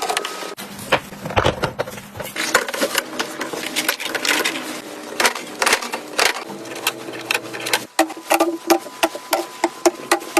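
Rapid clicks, taps and rustles of packages and plastic storage boxes being handled and set into a refrigerator. The sound changes abruptly about half a second in and again near eight seconds.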